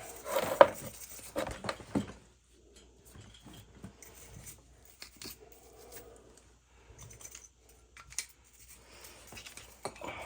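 Metal burner parts and hand tools being handled: scattered clicks, knocks and light scrapes, with a sharp knock about half a second in and busier handling in the first two seconds.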